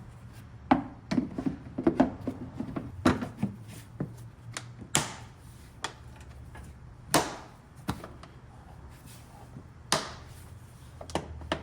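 Hands working plastic air-intake parts under the hood: a string of sharp clicks and knocks, some loud, over a steady low hum.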